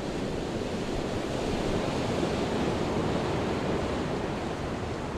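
Ocean surf washing on the shore: a steady rushing of waves that swells slightly in the middle.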